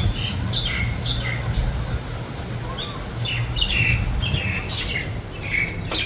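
Birds calling: a series of short, high calls, each sliding downward in pitch, repeated about every half second, over a low steady rumble.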